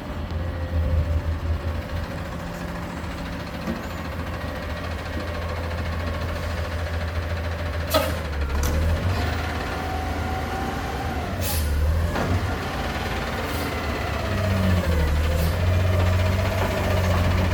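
Garbage truck engine running steadily, with two short sharp hisses about eight and eleven and a half seconds in and a whine that rises and falls between them.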